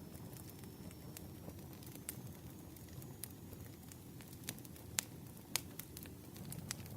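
Campfire crackling: a low steady rumble of burning wood with scattered sharp pops, the two loudest about five seconds in.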